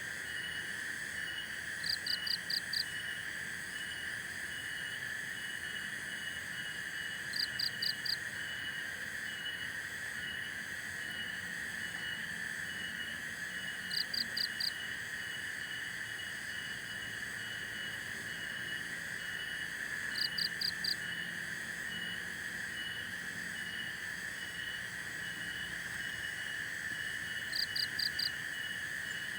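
Chorus of calling insects: a steady high buzzing drone with a fainter chirp pulsing about twice a second. About every six seconds, a louder burst of four quick, high chirps comes in, five times in all.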